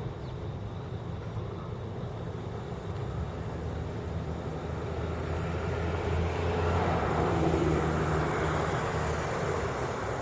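Steady low hum of road traffic, with a motor vehicle passing close by: its engine sound swells from about four seconds in, peaks around seven to eight seconds, then fades.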